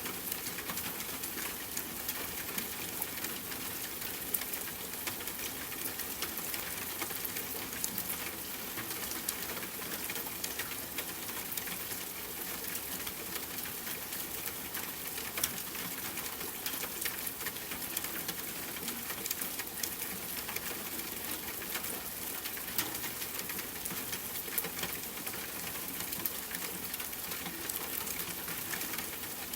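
Rain pattering steadily on a tent, mixed with the snapping crackle of a campfire: an even hiss dotted with many small sharp pops.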